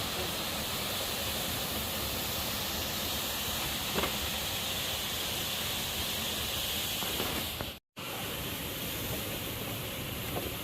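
Steady rushing noise of a waterfall, even and unbroken apart from a faint click about four seconds in and a momentary cut-out about eight seconds in.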